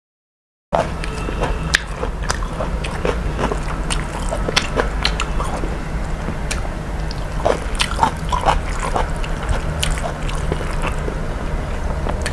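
A person chewing and biting food close to the microphone: scattered crisp clicks and mouth smacks over a steady low hum. The sound cuts in after a moment of dead silence at the start.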